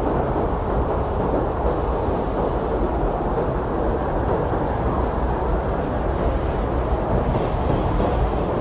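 Blizzard wind blowing hard and steadily: a dense, low rushing with no single gust or lull standing out.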